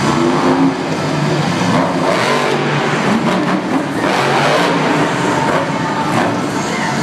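Monster truck engines running loud and revving, the pitch surging up and down several times.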